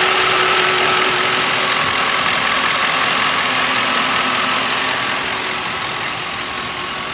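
2006 Lincoln Town Car's 4.6-litre V8 idling under the open hood, a steady engine-bay hum and whirr with the accessory belt and pulleys turning. It grows slightly quieter over the second half.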